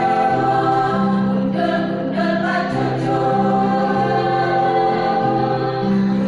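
A choir singing, holding long notes that move to a new chord about every second.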